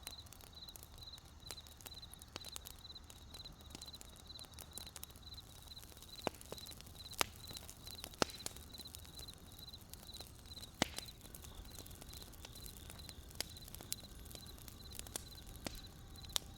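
Crickets chirping in an even, repeated pulse of high chirps, about two to three a second, while burning firewood crackles with scattered sharp pops; the loudest pops come about seven and eight seconds in.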